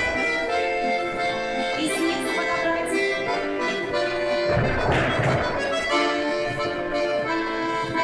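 Accordion playing live dance accompaniment in steady, sustained chords. There is a dull thump about five seconds in.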